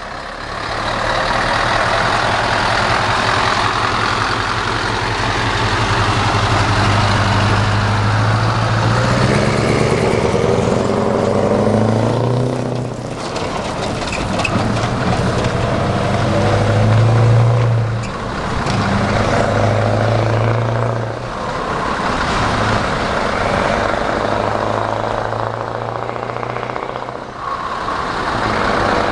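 Scania 580 V8 truck, heavily loaded with livestock, pulling away. The engine climbs in revs and drops back at each gear change, about four times.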